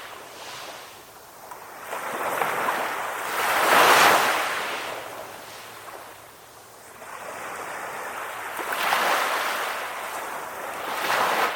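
Calm ocean waves breaking and washing back, the surf swelling and fading in slow surges every few seconds. The loudest wash comes about four seconds in, another near nine seconds, and a shorter one just before the end.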